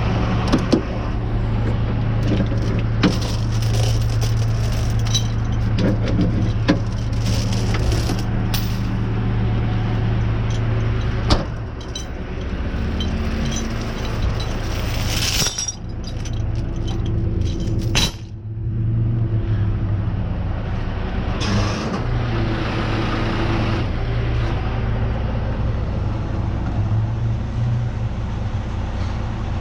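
Truck engine running steadily, with scattered sharp metal clanks and rattles from tow chains being handled.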